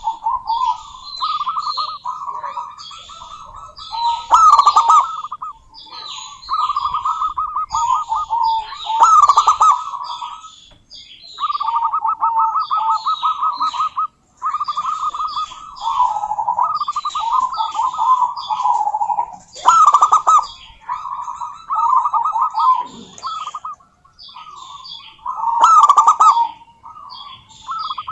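Zebra doves (perkutut) cooing almost without pause: rapid, rattling, trilled coos held around one pitch, in phrases of a few seconds broken by short gaps, with higher chirps above them.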